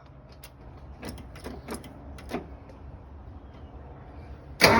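A few light clicks and knocks, then about four and a half seconds in the 1974 Toyota Land Cruiser FJ40's inline-six fires and starts running on a cold start.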